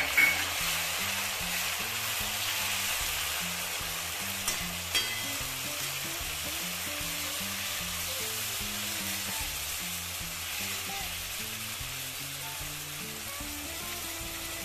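Chopped onions sizzling steadily in hot oil in a kadhai while they brown. A metal spoon clinks against the pan at the start and twice more, about four and a half and five seconds in.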